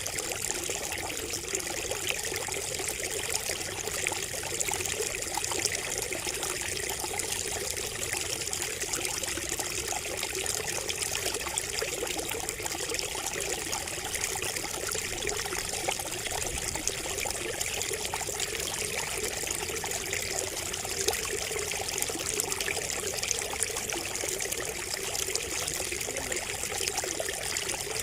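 Water trickling and splashing steadily from a bamboo water feature, a continuous even babble with fine droplet splashes.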